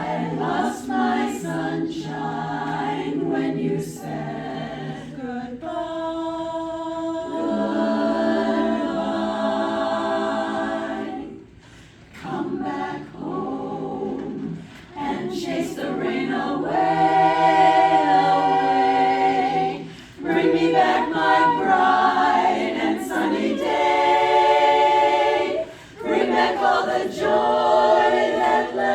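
A vocal group singing a cappella in harmony: sustained chords of several voices, with short breaths between phrases.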